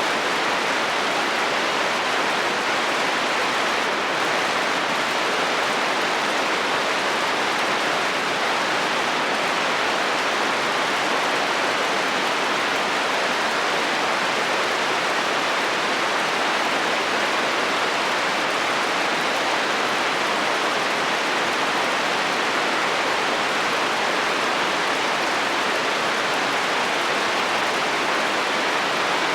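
Steady, even rain falling on a metal roof, with no thunder.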